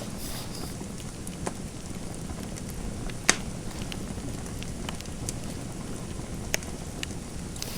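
Fire crackling in a fireplace: a steady low rumble with scattered sharp pops, the loudest a little over three seconds in and another near six and a half seconds.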